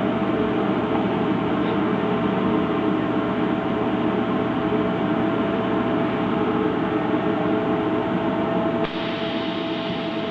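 High-frequency canvas welding machine running: a steady mechanical hum and hiss with a constant mid-pitched tone. Near the end the sound changes abruptly, becoming a little quieter but brighter and hissier.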